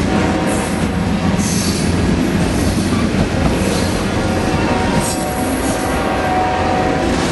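Amtrak Coast Starlight passenger train rolling along the track: a steady, loud rumble of wheels on rail, with brief high-pitched wheel squeals a few times.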